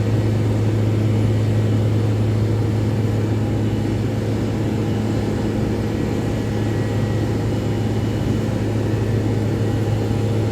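Steady low engine drone with a constant deep hum, from the de-icing trucks and aircraft machinery at work on the ramp.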